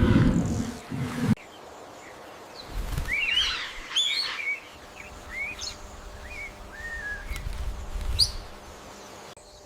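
Birds chirping and calling in short, rising and falling whistled notes, after a low rushing noise of surf and wind cuts off abruptly about a second in.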